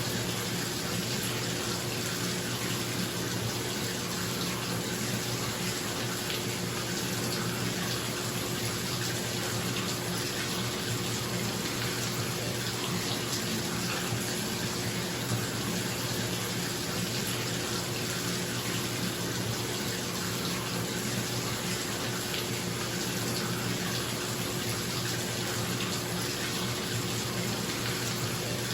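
Water running from a tap into a bathtub as it fills, a steady rushing splash, with a bathroom exhaust fan humming steadily underneath.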